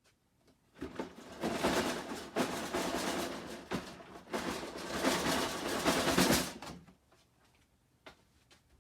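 Dense rustling and clattering with many small clicks for about six seconds, then a few scattered faint clicks.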